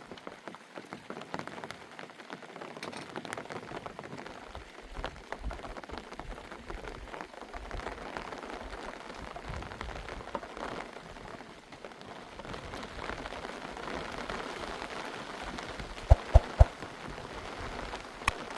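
Rain pattering steadily on a surface, a dense spatter of small drops. A few sharp knocks sound close together near the end.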